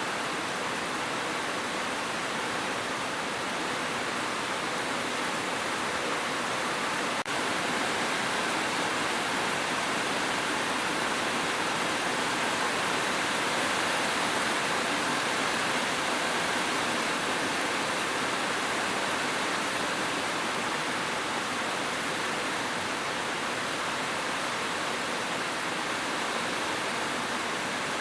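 Steady, even rush of heavy rain, with one brief faint tick about seven seconds in.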